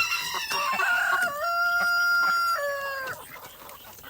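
Rooster crowing once: a single crow of about three seconds, with a choppy opening, a long held middle note and a drop in pitch at the end.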